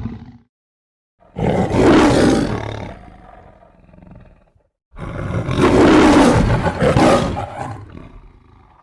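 Two long tiger-like creature roars, a sound-effect mix of big-cat and monster sounds: the first starts about a second in and trails off, the second starts about halfway through and lasts about three seconds.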